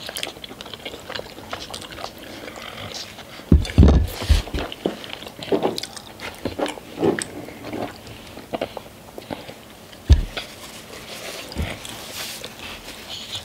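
Close-miked chewing and mouth smacks of people eating noodles and chicken wings. There is a cluster of heavy thumps about four seconds in and a single thump about ten seconds in.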